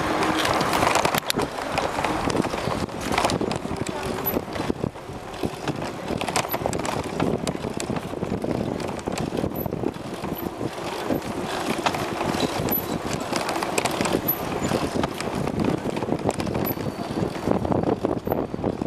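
Wind and rolling noise from a bicycle ridden fast through city streets, with frequent short knocks and clatters as it goes over bumps.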